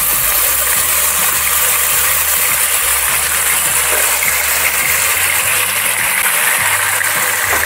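Marinated chicken pieces sizzling loudly in hot oil as they are spooned into the pan, a steady frying hiss.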